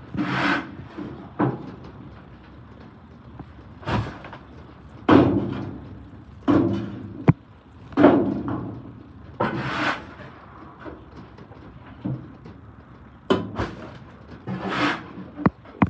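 Repeated metal scrapes and clanks, one every second or two, each with a brief ringing: debris being dug and knocked out from behind a garbage truck's packer blade in its steel hopper.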